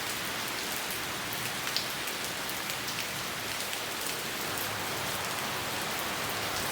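Steady rain falling on leafy plants: a constant hiss with many separate drops ticking close by. One drop lands louder about two seconds in.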